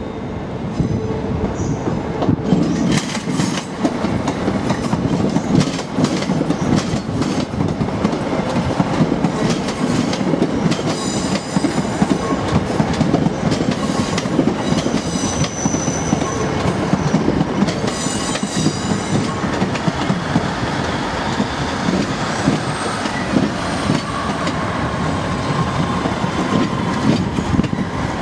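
A First ScotRail Sprinter diesel multiple unit running past slowly over the station pointwork: a continuous low rumble with its wheels clicking over rail joints and points all the way through, and a few brief high wheel squeals in the middle.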